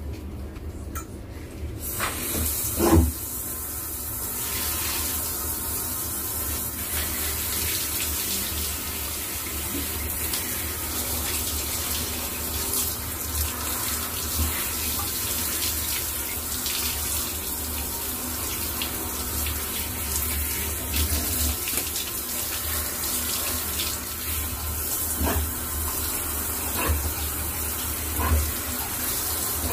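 Steady running water that starts about two seconds in, with a few brief knocks, the loudest a few seconds in.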